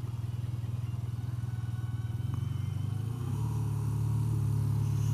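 BMW R12's air/oil-cooled boxer twin running steadily while the motorcycle is ridden. The engine note shifts and grows a little louder about three seconds in, as the throttle opens.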